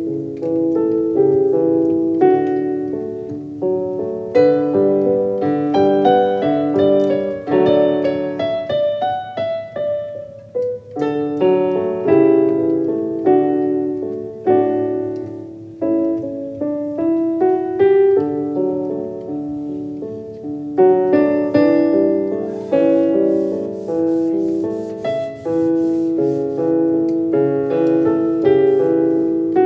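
Background piano music: a gentle melody of single notes and soft chords.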